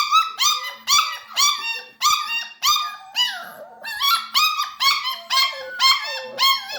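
Puppies yelping and whimpering in a quick run of short, high-pitched cries, about two or three a second.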